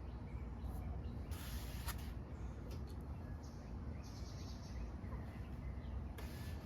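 Low steady room hum with a few brief soft rustling hisses and a light click, the sound of something being handled.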